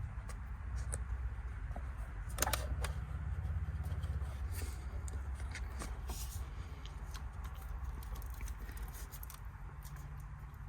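Handling noise: rustling with a cluster of sharp clicks about two and a half seconds in and scattered small clicks after, over a low rumble.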